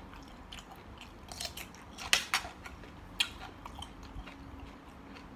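Close-up eating sounds: a person chewing a mouthful of spicy mixed seafood salad, with a few sharp mouth clicks around two seconds in and one just after three seconds.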